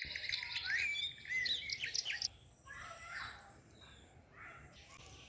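Birds chirping and calling in quick, rising and falling notes, busiest over the first two seconds and then fainter and sparser.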